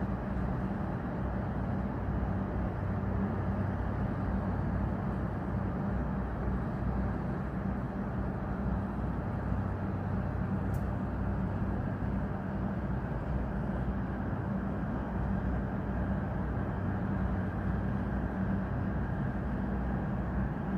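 Steady roar of a Boeing 777-300ER's twin GE90-115B turbofan engines as the airliner flies over, with a faint click about eleven seconds in.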